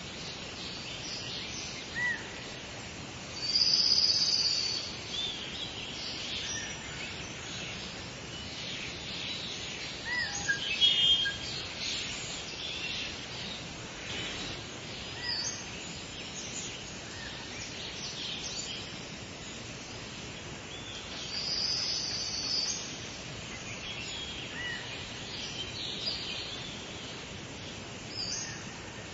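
Several birds singing and chirping over a steady background hiss, with short high calls and trills throughout. The loudest calls come about four seconds in, around eleven seconds, and again near twenty-two seconds.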